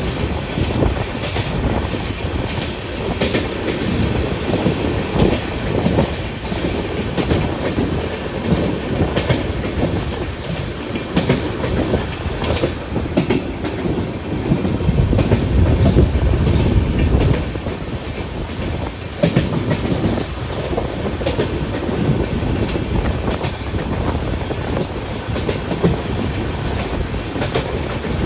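Ajmer Shatabdi passenger train running past, its wheels clacking steadily over rail joints above a continuous rumble, with a louder stretch about halfway through.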